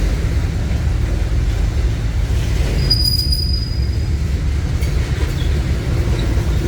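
Train rolling past on the track, a steady low rumble of wheels and cars, with a brief high-pitched wheel squeal about three seconds in.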